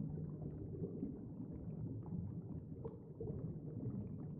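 Muffled low rumbling background ambience with faint scattered clicks.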